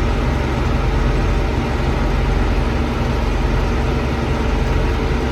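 John Deere 6600 combine's diesel engine running steadily under way, with a constant low drone and a hiss over it.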